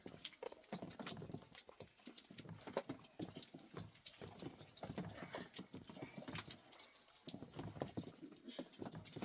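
Water dripping, many small irregular drops pattering.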